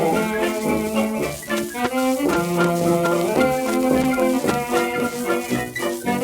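1920s dance orchestra playing the instrumental introduction of a 1927 78 rpm record, brass carrying the tune, with surface hiss from the worn record.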